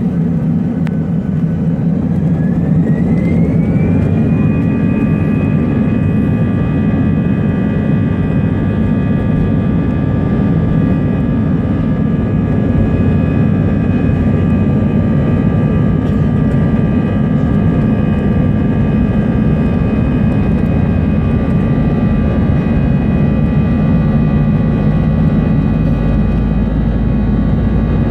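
Airbus A320 jet engines spooling up to takeoff thrust, heard inside the cabin. The engines' whine rises over the first few seconds, then holds steady over a heavy rumble during the takeoff roll, and the rumble deepens near the end.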